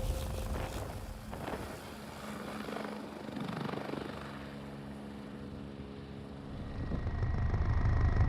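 Helicopter running, with a steady pitched hum in the middle, and its low rumble growing louder near the end.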